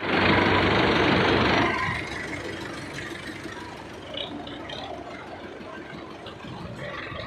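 Tractor engine running, louder and noisier for the first second and a half, then running on more quietly.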